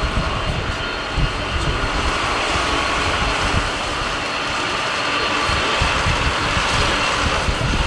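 Jet engines of a Boeing 747-400 freighter running steadily, with gusts of wind buffeting the microphone.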